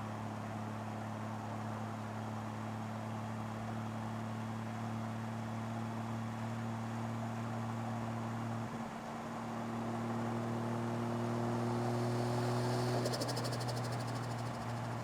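Toyota 1JZ-GTE turbocharged inline-six idling steadily, its note shifting slightly a little past halfway. A fast, faint high ticking joins near the end.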